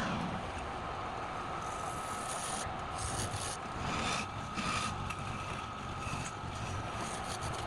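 Wood being turned on a lathe: a cutting tool scraping and rubbing against the spinning wood, with a faint steady whine underneath.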